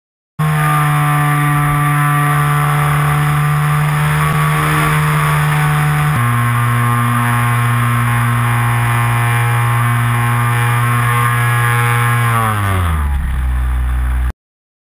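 Motor of a radio-controlled Corsair model plane running steadily at high throttle, dropping to a lower steady pitch about six seconds in, then sliding down in pitch near the end before cutting off abruptly.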